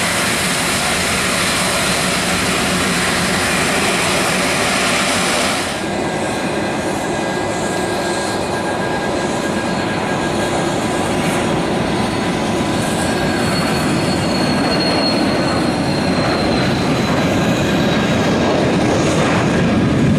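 Business jet's turbofan engines running close by: a loud, steady rush with a high turbine whine over it. The hiss thins suddenly about six seconds in, and the whine eases slightly in pitch later on.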